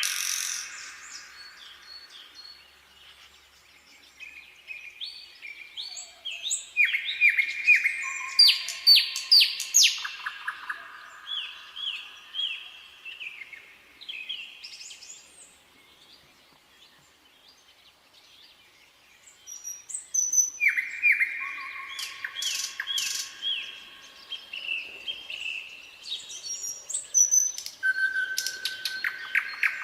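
Nightingale singing: phrases of rapidly repeated notes and trills, one after another, with a pause of a few seconds in the middle before it starts again.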